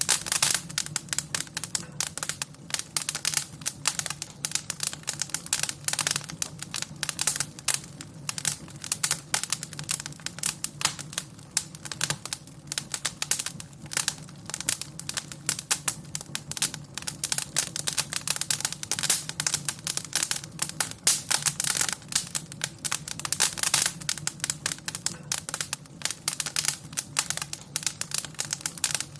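Wood fire in a fireplace crackling and popping: dense, irregular snaps over a steady low rumble of the flames.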